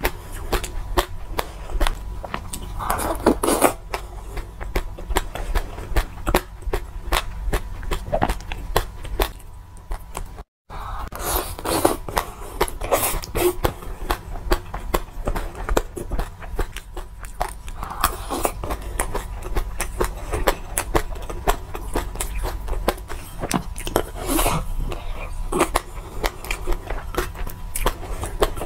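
Close-miked chewing and crunching of a mouthful of mixed seeds, including brown and golden flaxseed: a dense, steady run of small crisp clicks. The sound cuts out briefly about ten seconds in.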